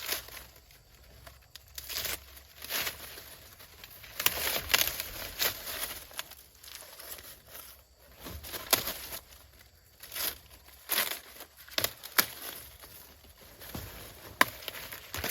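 Dry crop leaves and stalks rustling and crackling in irregular bursts, with a few sharp snaps, as plants are handled and picked by hand.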